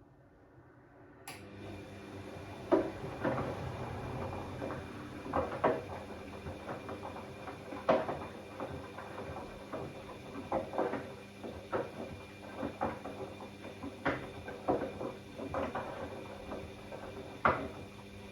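Bosch Classixx 6 washing machine in the early wash and water-sensing phase of a cottons 90 programme. About a second in a steady motor hum starts, under irregular knocks and thuds, likely the load tumbling in the turning drum.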